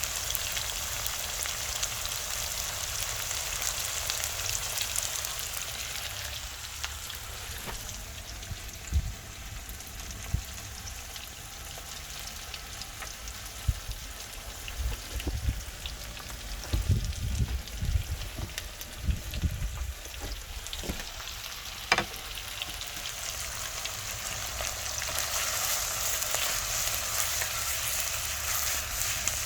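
Chicken karahi frying and sizzling in the karahi pan, with scattered knocks of stirring through the middle stretch. The sizzle is loudest at the start and again near the end.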